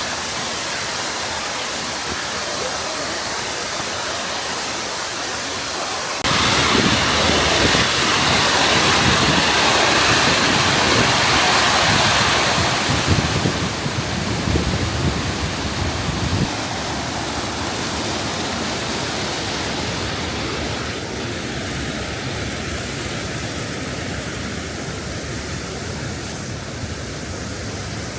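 Waterfall: the steady rush of water falling onto rock and pool at Yugawara Fudo Falls. The sound jumps suddenly louder about six seconds in, stays there for about ten seconds, then eases back down.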